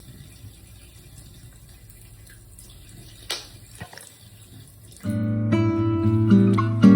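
Plucked acoustic guitar music begins abruptly about five seconds in. Before it there are a few seconds of faint hiss with two short clicks.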